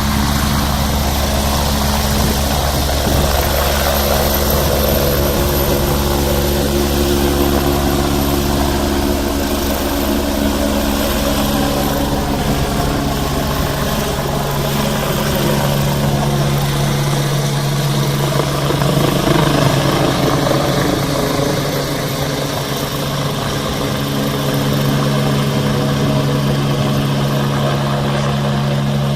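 Air ambulance helicopter running on the ground, its turbine whine and rotor sound loud and steady. About a third of the way through, the engine tones shift in pitch.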